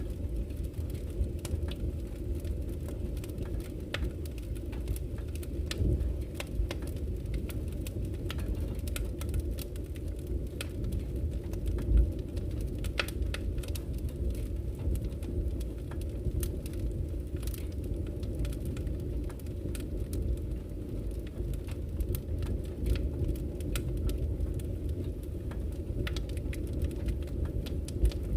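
Wood fire burning in a fireplace: a steady low rumble of the flames with scattered crackles and snaps of burning logs, one louder pop about twelve seconds in.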